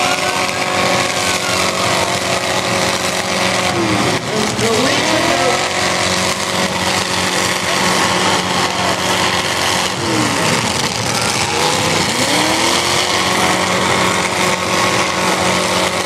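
Demolition derby cars' engines running and revving together, loud and steady, with an engine's pitch dropping and climbing back about four seconds in and again around eleven seconds in.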